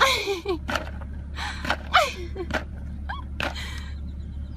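A person gasping several times, with short squeals that fall in pitch.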